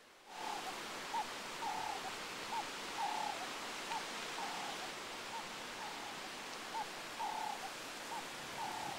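A bird calling over and over outdoors, about two clear whistled notes a second, short arched notes alternating with longer wavering ones, over a steady hiss of outdoor ambience.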